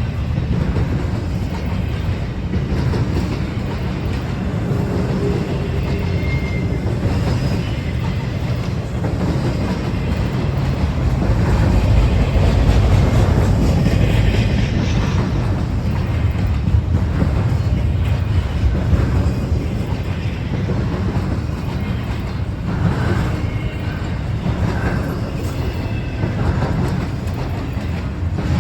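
Freight train rolling past, its steel wheels clattering over the rail joints over a steady low rumble. It grows louder partway through, then eases off.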